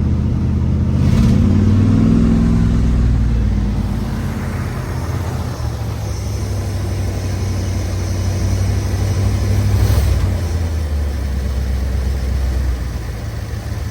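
First-generation Dodge Sno-Fighter truck engine running just after a reluctant cold start, with decent oil pressure. It revs up about a second in, falls back over the next few seconds, then runs steadily.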